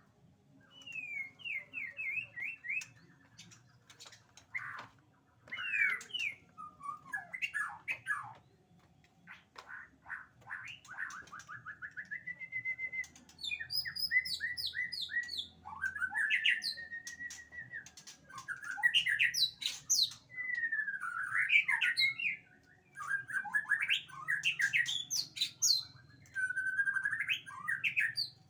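White-rumped shama (murai batu) singing a varied song: bursts of rapid repeated notes, slurred whistles and trills, broken by short pauses.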